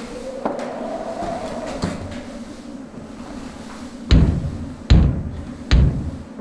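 Three heavy thuds, evenly spaced a little under a second apart, after a stretch of quieter scattered clicks and knocks.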